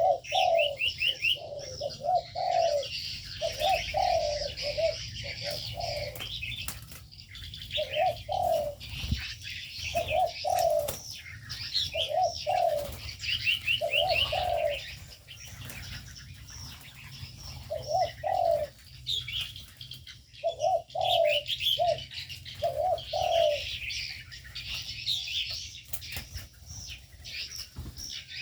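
Spotted doves cooing in repeated low phrases, over the constant high chirping and twittering of small birds, with occasional brief wing flutters.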